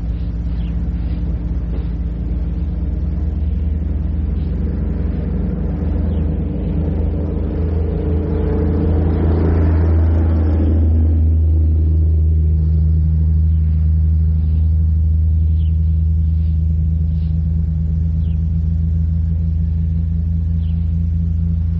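A steady low hum runs under an old cassette field recording. About halfway through, a vehicle passes, its rushing noise building and then fading. Faint short high chirps of birds come through here and there.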